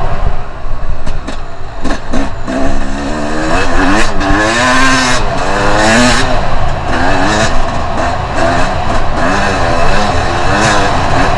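Two-stroke enduro motorcycle engine revving up and down over and over as the throttle is opened and closed, with hiss and short knocks throughout.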